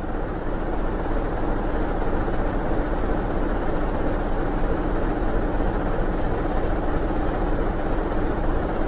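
Heavy diesel truck engine running steadily as the truck drives along while belching thick white exhaust smoke.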